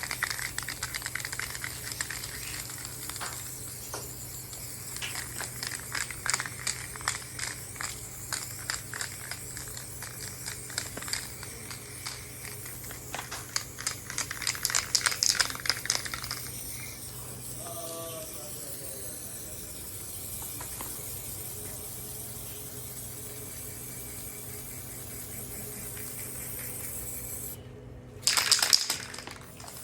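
Aerosol spray-paint can rattling and clicking, then hissing as paint is sprayed onto the stove pipe, with a short loud spray near the end.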